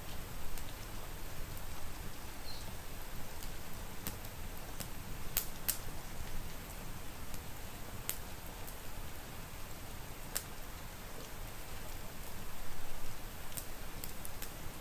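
Fireplace wood fire crackling, with irregular sharp pops, over a steady hiss of rain and a low rumble.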